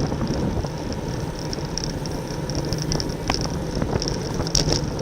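Wind rushing and rumbling over the microphone of a camera on a road bicycle at race speed, with a steady low hum and scattered sharp ticks from the bike.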